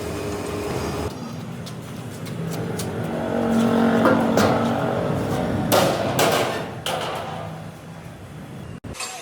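Metal-fabrication workshop noise: machinery running with repeated metal knocks and clanks, and two loud hissing bursts about six seconds in. The sound breaks off abruptly near the end.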